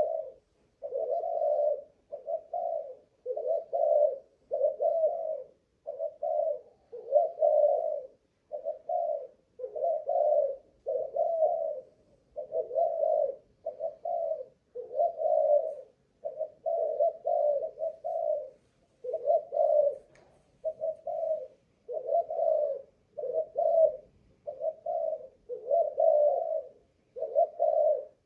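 Spotted dove cooing without a break, a long run of low coos about one a second with short pauses between phrases: the sustained calling shows the bird's cooing stamina.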